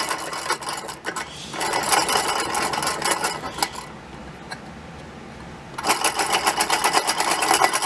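Old toy solenoid engine running with a fast, even clatter of clicks from its solenoid and contacts. About four seconds in the clatter drops away to a few scattered clicks as the engine almost stops, then picks up again about two seconds later; the speed is touchy.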